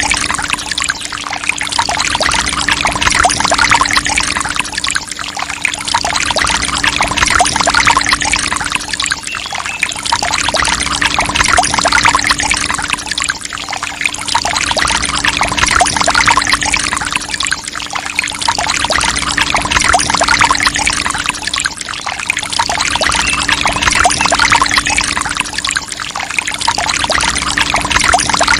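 Water from a mini water pump splashing and pouring, with a steady hum underneath. The splashing swells and fades every few seconds.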